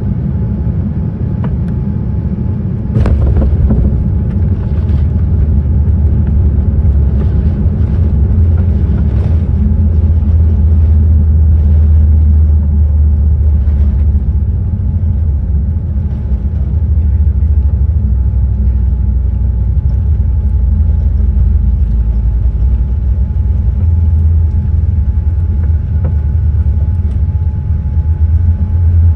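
Steady low rumble inside the cabin of a Boeing 787-10 airliner, with a faint steady whine over it. There is a knock about three seconds in, and the rumble is louder from then on.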